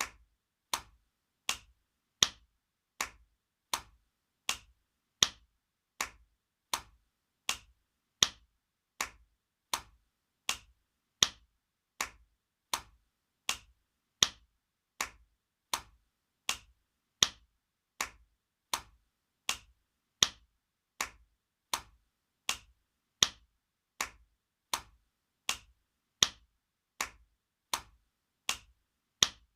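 Spanking sound effect: a sharp hand slap repeated at a steady pace of about four slaps every three seconds, each a short crack, some louder than others.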